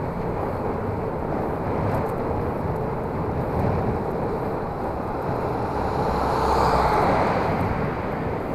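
Wind rushing over a bicycle helmet camera's microphone while riding, with road traffic noise, swelling about two-thirds of the way in.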